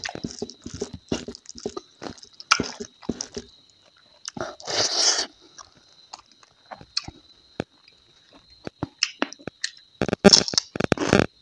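Close-miked chewing and crunching of food eaten by hand, with many small wet clicks; near the end a run of loud crisp crunches as a fresh lettuce leaf is bitten into.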